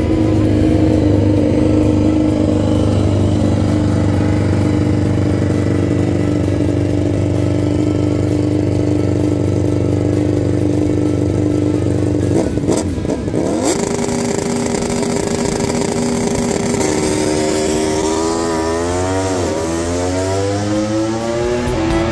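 MotoGP racing motorcycle engine running at steady high revs. The pitch steps up about thirteen seconds in, then the engine is revved up and down in repeated sweeps near the end.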